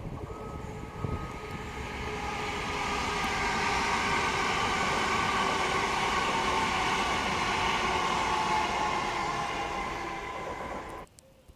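Passenger train passing along the line, a steady rumble of wheels on rails with a whine from its motors. The sound cuts off suddenly near the end.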